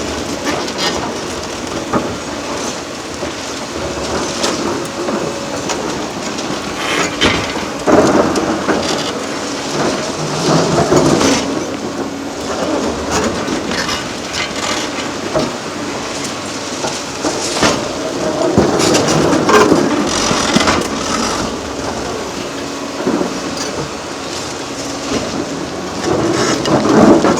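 Excavator demolishing a concrete bridge: concrete grinding and cracking, with rubble falling in irregular surges and a few sharp crashes, over the running diesel machine.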